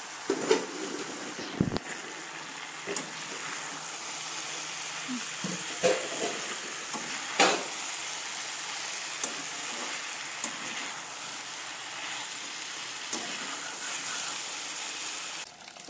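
Chicken and potato pieces sizzling as they fry in a wok, stirred with a spatula that scrapes and knocks against the pan now and then.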